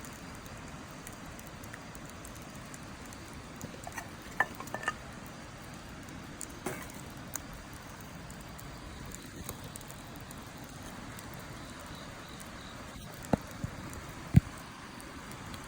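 Wood campfire burning with a steady hiss and sharp crackles and pops: a cluster of small pops about four to five seconds in and the loudest pops near the end.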